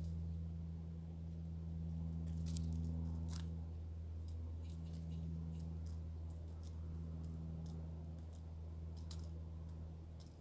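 Birds pecking at food: scattered sharp clicks and taps, irregular and several a second at times, over a steady low hum.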